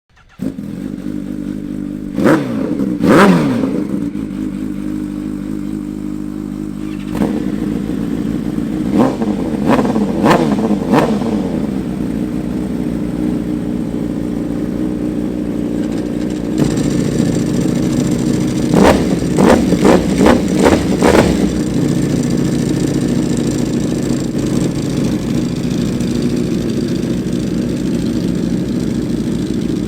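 Superbike engines idling and being revved, one bike after another: a Kawasaki Ninja H2, a BMW M1000RR and a Ducati V4. The first blips its throttle twice a few seconds in. The second engine takes over at about seven seconds and revs four times. The third, from about sixteen seconds, gives a quick burst of five or six revs and then settles to idle.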